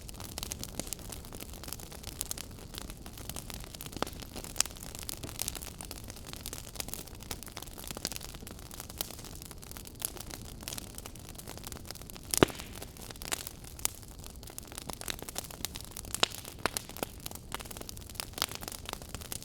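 Wood fire in a fireplace crackling: frequent small pops and snaps over a steady low hiss, with one louder pop about twelve seconds in.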